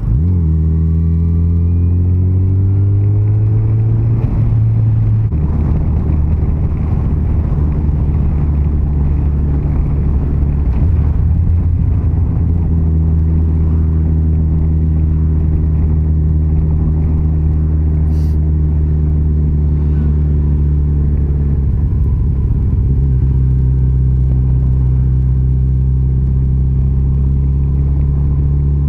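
Yamaha FJR1300's inline-four engine running under way with road and wind noise: it climbs in pitch for the first few seconds, drops back at a shift about five seconds in, holds a steady cruise, eases off shortly after twenty seconds and settles again.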